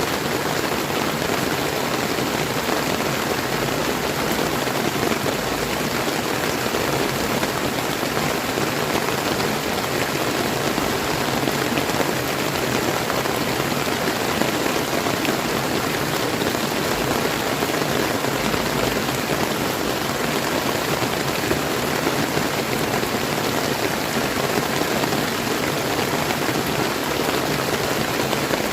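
Steady rain falling, mixed with the rush of a flowing river; an even hiss with no breaks or distinct events.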